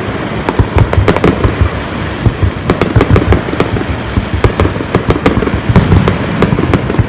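Aerial fireworks going off in rapid succession: many sharp bangs over a continuous rumble and crackle of bursting shells.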